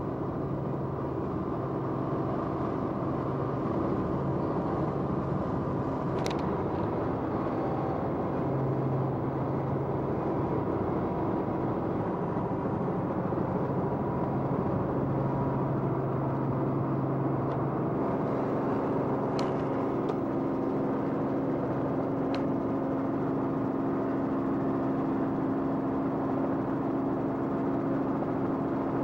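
Steady drone of an aircraft's engine, filming the aerials, with several held tones that change pitch about eighteen seconds in. A few brief clicks are heard over it.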